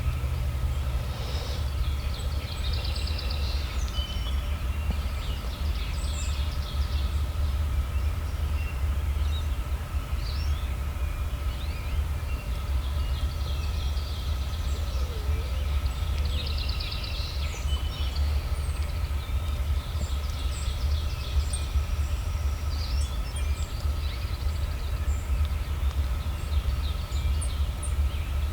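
Outdoor morning ambience: several songbirds singing, with repeated short trills and chirps, over a steady low rumble and a faint steady hum.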